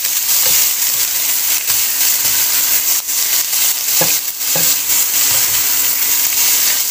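Chopped chicken intestines sizzling in hot oil in a nonstick pan while being stirred with a spatula: a steady hiss of frying, with a few knocks and scrapes of the spatula against the pan around the middle.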